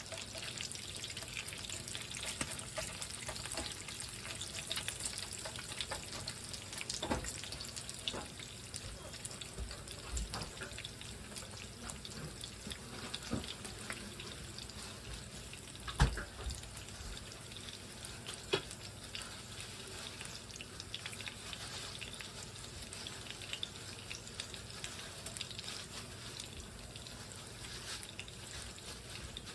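Food cooking on the stove: a steady sizzling and bubbling hiss, broken by a few sharp knocks, the loudest about halfway through.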